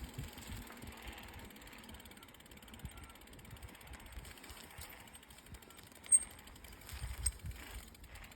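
Mountain bike freehub ticking rapidly as the bike coasts, over low rumbles and bumps from the ride, with one sharp click about six seconds in.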